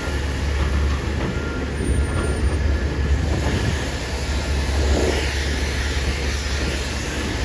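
Steady low rumble of heavy garbage trucks' diesel engines running and moving.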